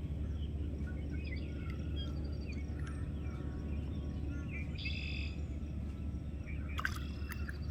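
Small birds chirping and calling over a steady low rumble, with a few sharp clicks about seven seconds in.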